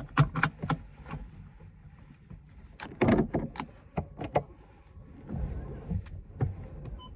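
A run of sharp clicks and knocks, with a louder cluster about three seconds in, then a car engine's low rumble setting in from about five seconds in.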